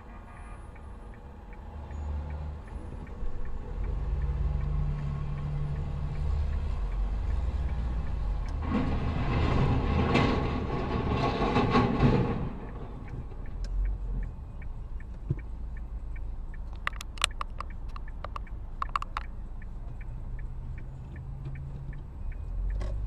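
A car driving, with a steady low engine and road rumble. A louder rushing noise swells and fades about nine to twelve seconds in, and a run of sharp clicks and taps comes near the end.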